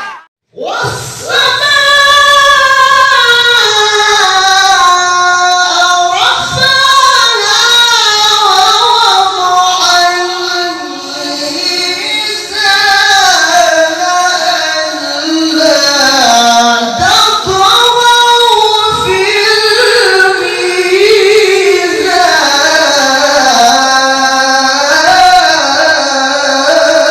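Quran recitation by a male qari in a high register: one voice sustaining long, ornamented melodic phrases that glide and turn with few breaks, after a brief pause about half a second in.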